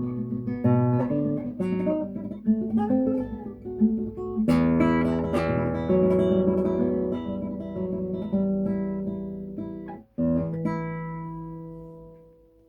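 Solo classical guitar playing the closing bars of a piece: single plucked notes, then a full strummed chord about four and a half seconds in that rings on. After a brief stop near the ten-second mark, a final chord is struck and fades away.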